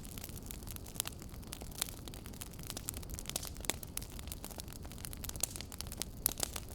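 Wood fire crackling: irregular sharp pops and snaps, several a second, over a steady low rumble of burning, with one of the louder pops a little after six seconds in.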